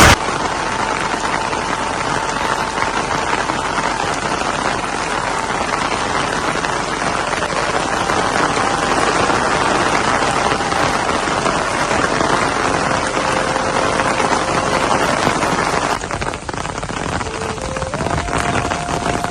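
Rain falling steadily, an even hiss, with a few faint held tones sounding over it now and then.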